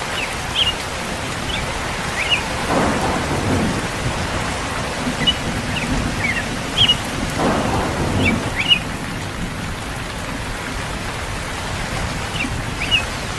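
Steady heavy rain falling on a surface, with two low rolls of thunder, about three seconds in and about halfway through. Short high chirps are scattered over the rain.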